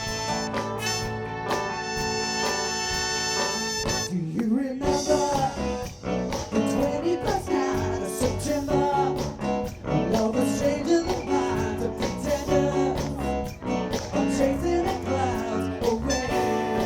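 Live soul band with drums, bass, keyboard, guitar and a horn section playing. A full held chord rings for the first four seconds, then a lead melody with bending notes takes over above a steady beat.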